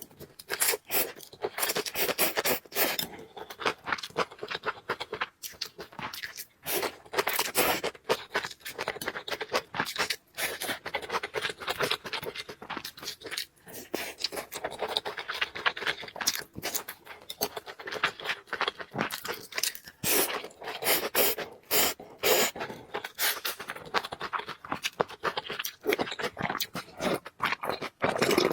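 Close-miked eating sounds: chewing and mouth noises with many irregular crisp clicks and scrapes.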